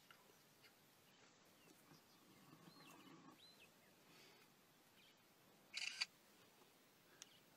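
Near silence in dry bush: a few faint high chirps, like a small bird calling in the distance, about three seconds in, and one short, sharp, scratchy burst near six seconds.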